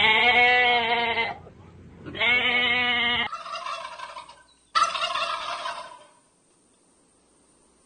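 Farm animal calls: two wavering calls of about a second each, then two rougher, noisier calls, after which the sound drops to near silence.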